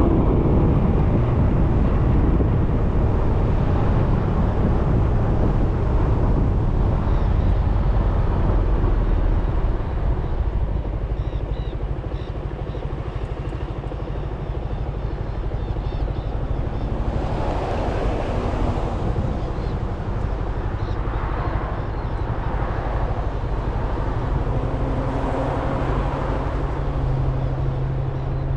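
Suzuki Burgman 400 scooter's single-cylinder engine running on the move, with road and wind noise. It gets a little quieter about ten seconds in, and several louder rushing swells come in the second half.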